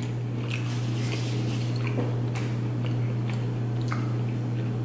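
Chewing and swallowing a mouthful of sandwich with the mouth closed: a few soft wet mouth clicks, over a steady low hum.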